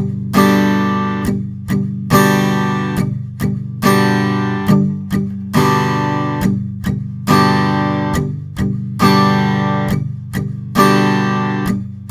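Acoustic guitar strummed on a G major chord in a repeating pattern: two short downstrokes damped with the edge of the strumming hand, then an open downstroke that rings out. The cycle comes round about every second and three-quarters.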